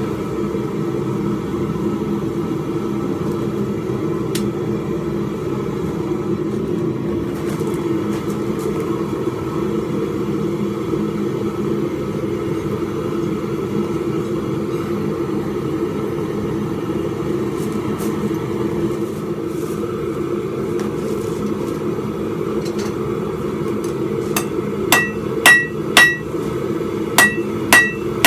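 A steady low rushing noise, with several ringing hammer blows on steel on an anvil near the end as a spike is forged.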